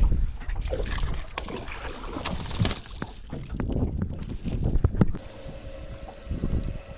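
Irregular knocking, splashing and handling sounds in a small boat, with wind on the microphone. About five seconds in it turns quieter and steadier, with a faint hum.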